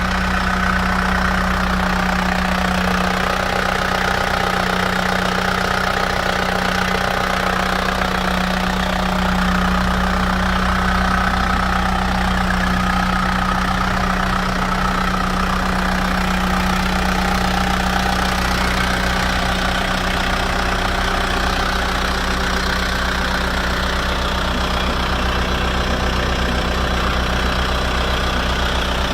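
Kubota M7040 tractor's diesel engine running steadily at an even speed, a constant low hum with no change in pitch.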